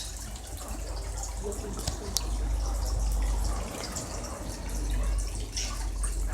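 Aquarium water dripping and splashing, over a steady low rumble, with one sharp click about two seconds in.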